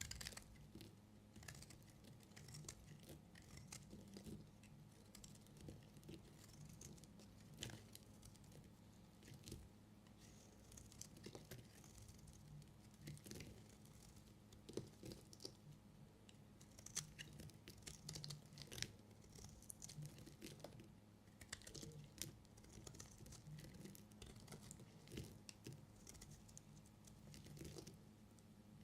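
A knife cutting through bars of soap: quiet, irregular clicks and scrapes of the blade, a few every second, over a faint steady low hum.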